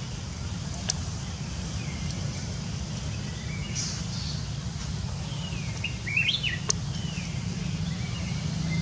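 Wild birds chirping with short scattered calls, some falling in pitch, with a brief flurry of calls about six seconds in, over a steady low rumble. Two sharp clicks, one about a second in and one near seven seconds.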